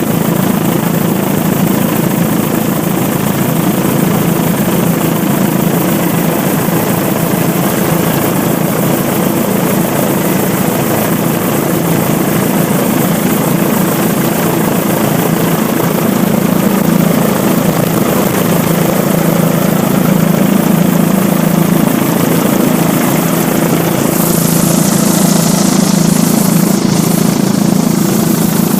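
Helicopter running steadily, with a loud low drone of engine and rotor. About 24 s in, a higher hiss joins it.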